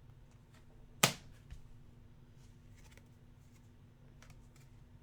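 Trading cards being handled and sorted, with one sharp snap about a second in, a softer click shortly after, and faint light ticks.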